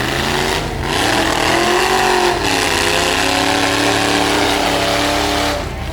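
Demolition derby truck's engine revving: the pitch climbs about a second in, dips, then holds high and steady for a few seconds before falling away near the end.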